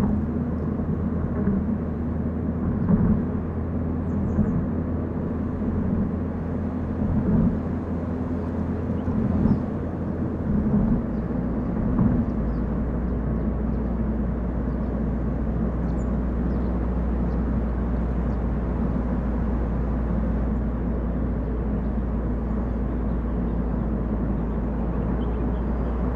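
A car being driven on a mountain road: steady engine hum and tyre noise. The engine note drops to a lower, steadier drone about eleven seconds in, and a few louder bumps come in the first half.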